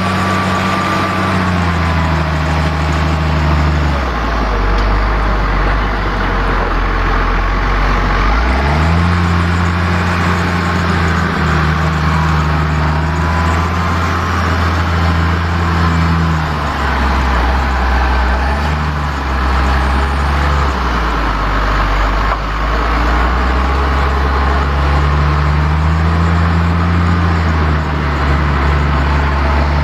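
New Holland TG 285 tractor's diesel engine running, its speed dropping about four seconds in, rising again, then dropping and picking back up near the end, as if working under changing load.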